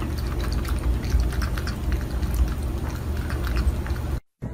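A domestic cat purring in a low, steady rumble as it soaks in a sink full of water, with scattered small clicks over it. The sound cuts off near the end.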